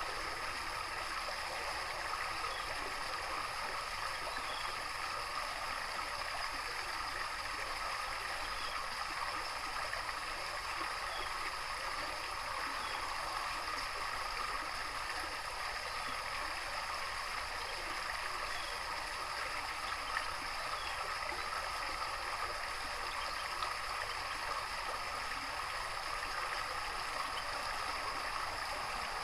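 Steady running water, like a small stream or garden water feature, with faint, brief chirps from small birds now and then.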